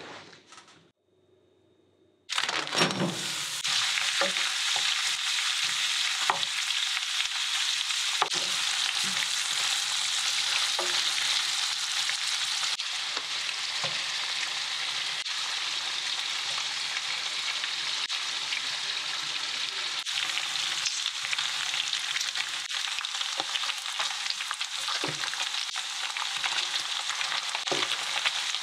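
Sliced smoked duck frying in a grill pan: a steady sizzle that starts abruptly about two seconds in, with occasional knocks of a cooking utensil stirring in the pan.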